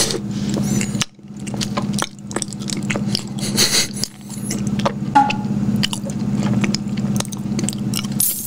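Close-miked chewing of a soft lemon-filled donut, with moist smacks and small clicks from the mouth. A steady low hum runs underneath.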